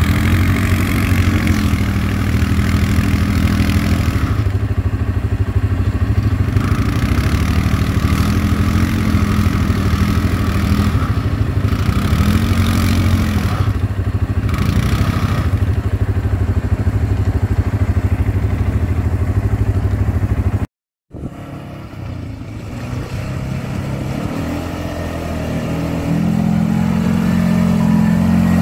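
ATV engine running and being revved up and down several times. The sound cuts out abruptly about two-thirds of the way through, then the engine comes back in and builds up again near the end.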